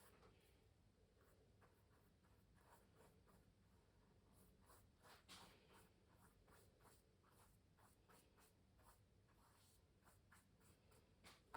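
Very faint, quick strokes scratching across a painting canvas, a few a second, with a slightly stronger stroke about five seconds in.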